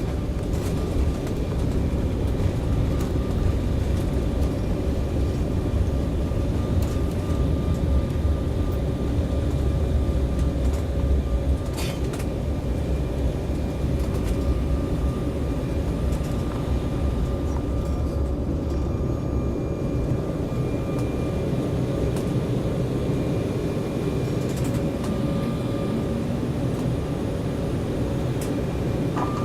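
Cabin noise inside an Embraer 190 airliner rolling on the runway after landing: steady jet engine hum over a heavy low rumble, the rumble easing about twelve seconds in as the aircraft slows. A brief click about twelve seconds in.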